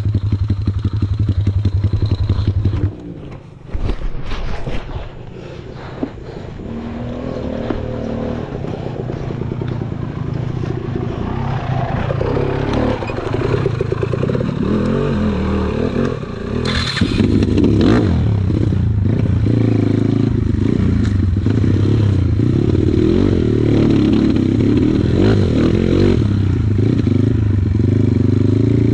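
Dirt bike engine running. It drops off sharply about three seconds in, then picks up gradually and runs hard through the second half, with scraping and clattering mixed in.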